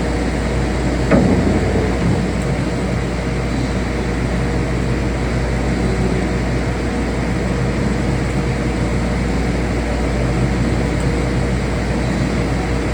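Woodworking shop machinery running steadily with a constant hum, and a single sharp knock about a second in.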